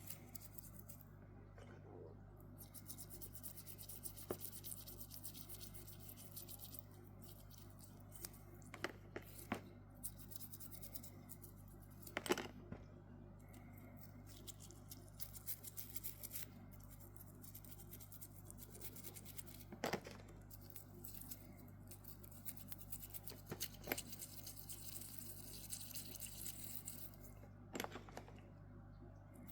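Faint scraping and rubbing of small parts of a Casio G-1800D watch being worked on by hand, with a few sharp clicks scattered through, over a steady low hum.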